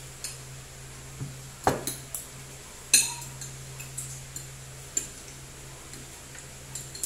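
Scattered clinks and knocks of cutlery and dishes at a meal, the loudest about three seconds in, over a steady low hum.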